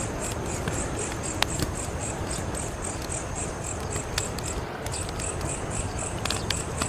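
Wood fire burning with a steady low rush and a few sharp crackles and pops. Behind it a cricket chirps in an even, rapid pulse of about five chirps a second.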